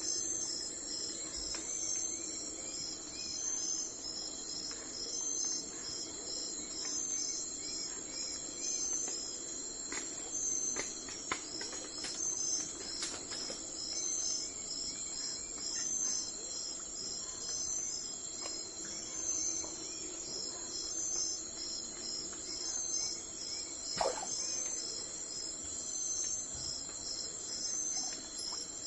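Crickets chirping in a steady, even rhythm of high chirps over a low background hum of outdoor ambience, with a single short click about twenty-four seconds in.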